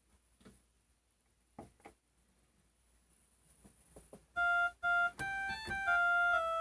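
A few faint taps, then about four seconds in an old electronic keyboard sounds a short run of notes in a thin, clean electronic tone, the last note held about a second.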